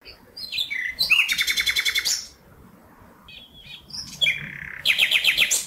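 Bird song in two phrases. Each phrase is a few short high notes followed by a fast, even trill, and the second phrase starts a little over a second after the first ends.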